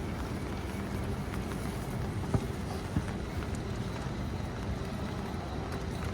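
Steady city street ambience, a low even din, with two short sharp knocks a little over two and three seconds in.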